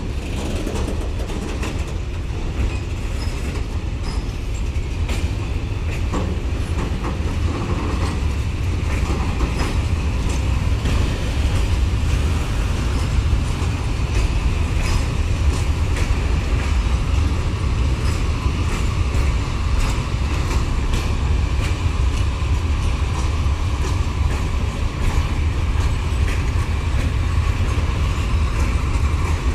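Freight train wagons rolling past: a steady low rumble of steel wheels on the rails, with irregular clicks from the wheels crossing rail joints, growing slightly louder over the first part.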